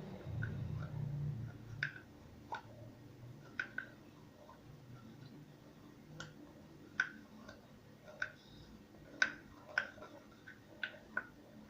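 Scattered sharp plastic clicks and ticks, about a dozen at uneven spacing, from a plastic glue bottle and container being handled as white school glue is squeezed out, with a low rumble of handling in the first second or so.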